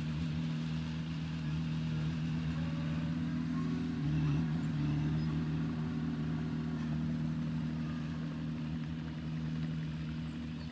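Heavy diesel engine of earthmoving machinery running steadily, a little louder about four seconds in.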